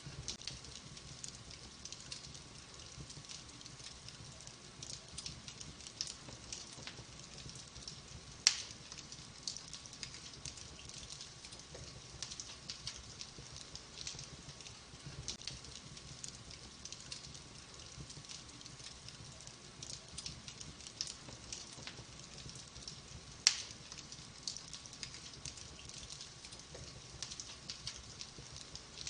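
Wood fire in a fireplace crackling, with logs burning: a steady run of small, quick ticks and snaps. Two much louder sharp pops stand out, about fifteen seconds apart.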